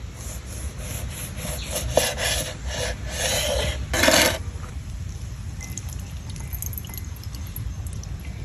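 A run of rough rubbing or scraping strokes by hand over the first four seconds or so, the last one the loudest, then only a low background.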